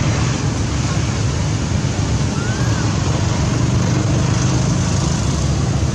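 Steady, loud, low rumbling background noise outdoors, with one faint short squeak about two seconds in.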